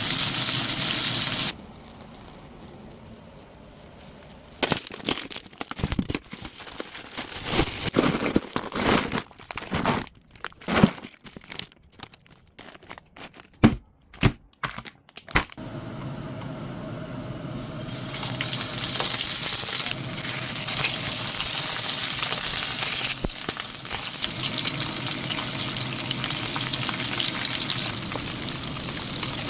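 Irregular clicks, knocks and rustling of a delivery package being opened, then a steady sizzle of whole gizzard shad grilling, which grows louder and brighter partway through and holds.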